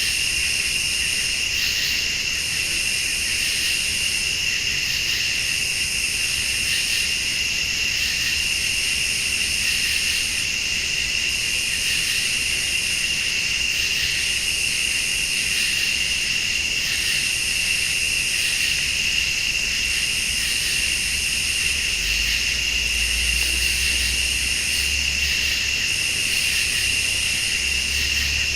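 Night chorus of crickets and other late-summer insects: a steady high trill throughout, with a still higher-pitched insect buzzing in bursts of about a second, repeating roughly every two seconds.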